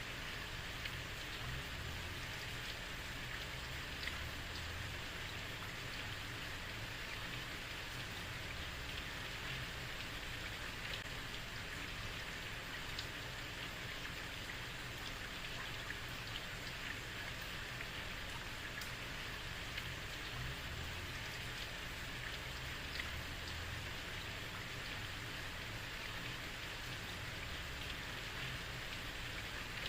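Heavy rain falling on a street: a steady, even hiss of rain with scattered individual drops splashing.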